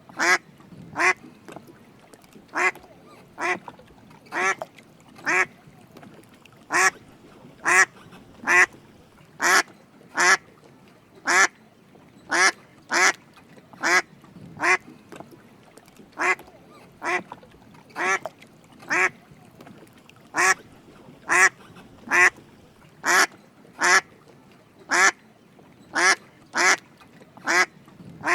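Drake mallard duck quacking: short, even quacks, often in pairs, repeated about once a second.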